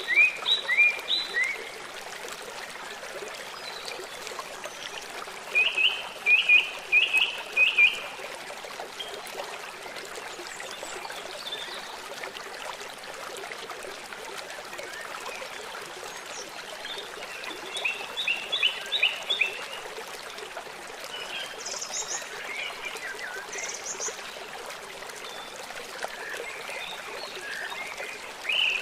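Forest birds singing over a steady rush of running water. One bird repeats a quick series of short, bright chirps several times, with other birds calling between these phrases.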